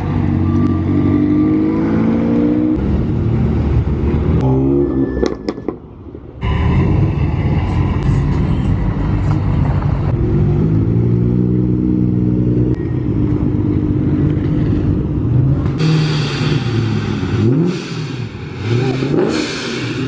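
Sports car engines revving and accelerating as cars pull away one after another, each with a rising engine pitch. The sound drops off briefly about six seconds in.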